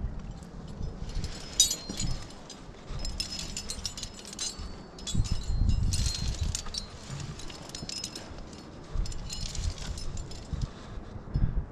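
Metal climbing gear, carabiners and hardware on a harness, clinking and jingling in repeated short clusters of ringing clicks, over low rubbing and handling noise from the body-worn camera mount.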